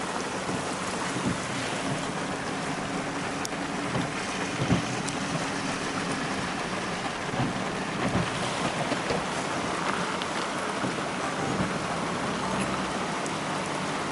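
Rain falling steadily in a thunderstorm, a constant even hiss.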